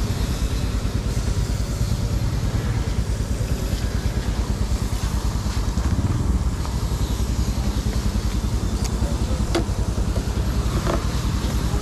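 Motorcycle engine idling with a steady, fast pulse, with a couple of sharp clicks near the end.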